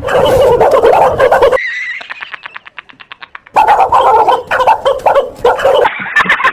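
A dog barking loudly and frantically, broken about a second and a half in by a stretch of about two seconds of a fast clicking rattle, after which the barking resumes.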